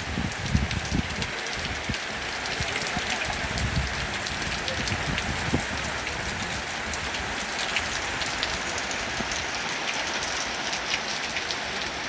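Steady rain falling, with the dense patter of many drops hitting a hard surface.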